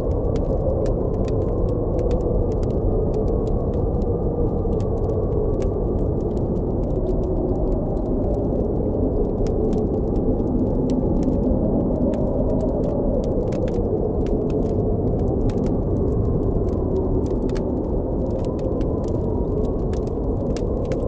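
Steady blizzard wind blowing with a deep, shifting rush, over a campfire crackling with frequent small pops.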